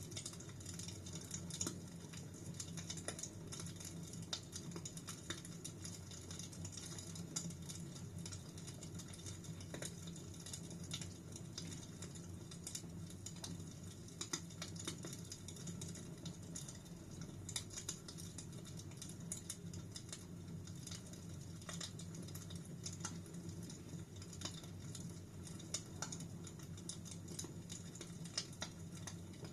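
Wood fire burning in a fireplace: a steady low rumble of flames with frequent irregular crackles and small pops.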